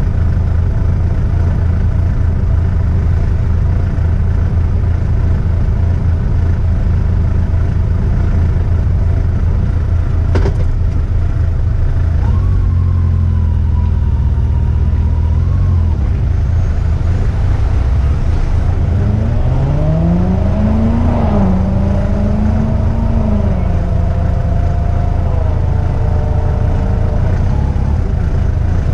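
Yamaha FJR1300's inline-four engine under way on the road. Its pitch climbs as it accelerates about two-thirds of the way through and then holds steady. Heavy wind rumble on the microphone runs underneath, and there is a single sharp click about a third of the way in.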